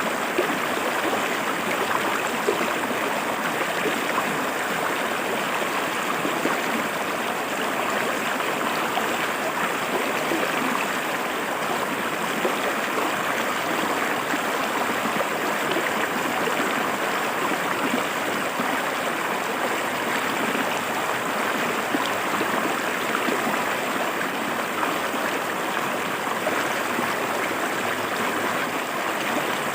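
River water flowing and splashing over rocks, a steady rushing and gurgling.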